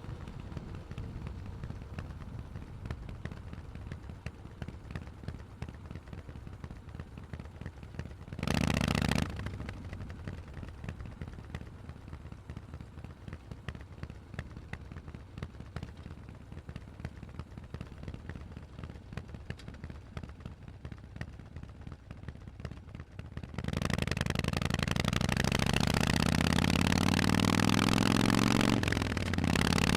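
Harley-Davidson Forty-Eight air-cooled V-twin through Vance & Hines exhaust, idling with an uneven lope and one short loud burst a third of the way in. Near the end it gets much louder and pulls away, pitch climbing, dipping briefly, then climbing again.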